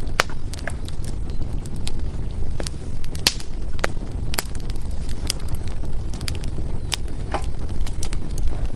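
Wood fire crackling and popping: irregular sharp snaps several times a second, some louder than others, over a steady low rumble of the burning fire.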